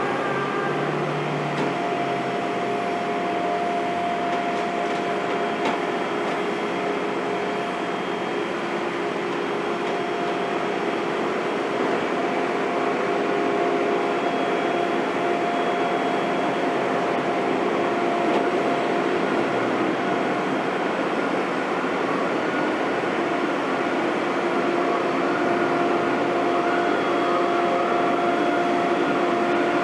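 Heavy construction machinery running steadily: diesel engine and hydraulics, with a held whine that fades in and out.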